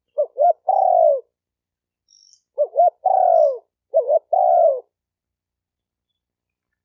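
Spotted dove cooing: two phrases, each opening with quick short notes and drawing out into longer coos that fall in pitch. The first comes right at the start; the second, a little longer, begins about two and a half seconds in.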